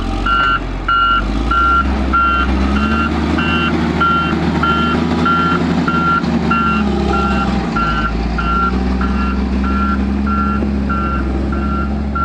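Heavy vehicle's reversing alarm beeping steadily, about twice a second, over a running engine whose pitch rises and falls.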